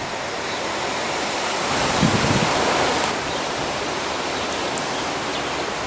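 Wind rushing steadily outdoors, with a stronger gust buffeting the microphone about two seconds in.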